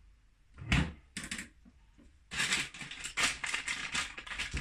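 A few soft knocks and rustles as parts are handled. About two seconds in, a continuous crackling rustle starts as wrapping material around the calculator kit's acrylic case part is handled.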